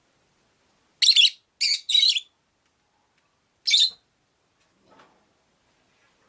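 Rosy-faced lovebird calling: three short, high-pitched chirps in quick succession about a second in, then one more near four seconds.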